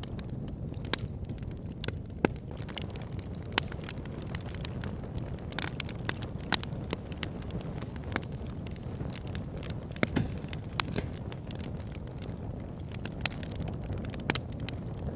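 Wood fire in a fireplace crackling: a steady low rumble of burning with irregular sharp pops and snaps, a few louder ones scattered through.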